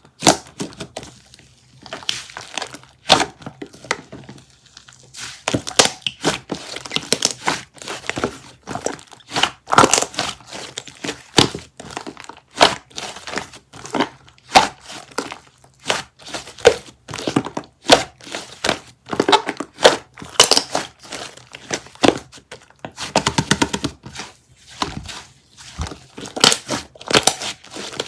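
Slime being squished and stretched by hand, giving off irregular crackling clicks and pops, with a quick rapid run of crackles a little past the middle.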